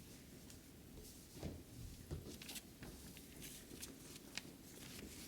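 Faint room tone of a school hall with scattered light clicks and knocks from the seated audience.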